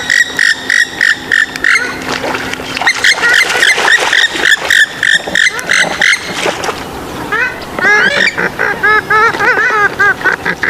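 Swamphen and moorhen calls: a fast run of repeated calls for about six seconds, then after a brief lull a rhythmic series of quick, arched notes.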